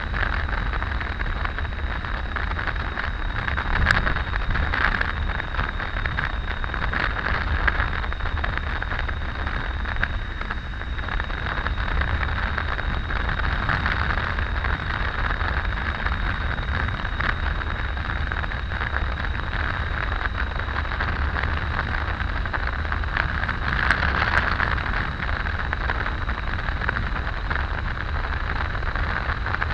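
Steady wind rush and road noise from a Triumph Tiger 800 motorcycle riding at road speed, with a deep rumble underneath and a faint steady high whine.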